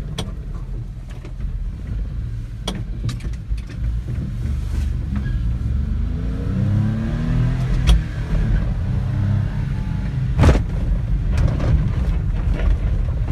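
1992 Suzuki Carry 4WD kei truck's small three-cylinder engine running as the truck drives, revving up with a rising pitch about halfway through. There are a few sharp knocks along the way.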